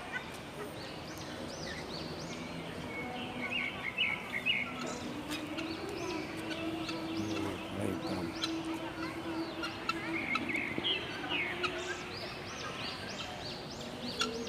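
Many aviary birds chirping and calling, a dense run of short, high, repeated notes throughout. A steady low hum runs underneath for several seconds in the middle.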